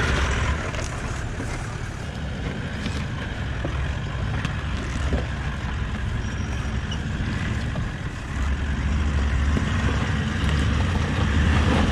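An off-road 4x4's engine running at low revs as the vehicle crawls over rough trail, with wind rumbling on the microphone. The low rumble swells about eight and a half seconds in.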